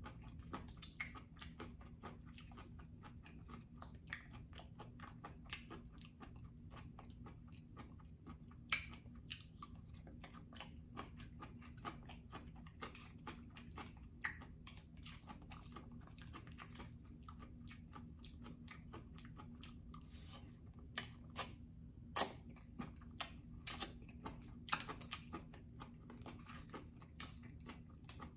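Close-miked chewing and wet mouth sounds of someone eating seaweed salad, with many small crackles and a few louder sharp clicks, over a steady low hum.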